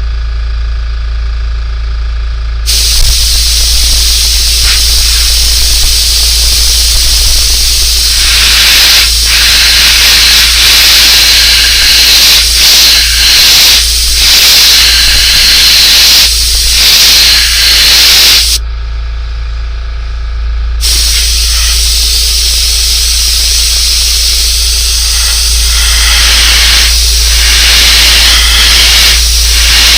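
Airbrush spraying paint: a steady hiss of air that starts about three seconds in, with short dips as the trigger is worked. It breaks off for about two seconds past the middle, then resumes, over a steady low hum.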